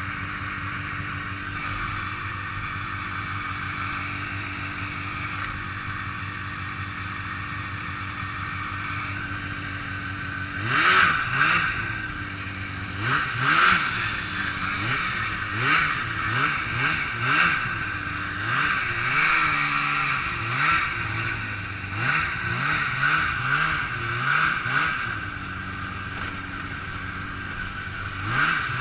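Two-stroke snowmobile engine running at a steady pitch for about ten seconds, then revved up and down over and over for the rest of the time, the pitch climbing and dropping every second or two as the throttle is worked.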